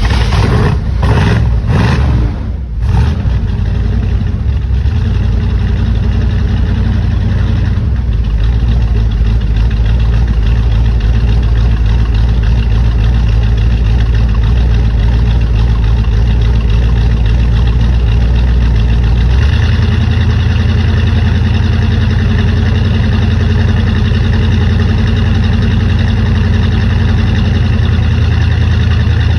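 1956 Chevrolet Bel Air V8 on a cold start, firing in uneven pulses for the first few seconds, then settling into a steady idle. About two-thirds of the way through, the idle's tone changes.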